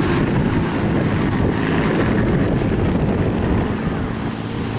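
Wind buffeting the microphone, with the drone of the Spitfire Mk IX's Rolls-Royce Merlin V12 engine underneath as it flies its display.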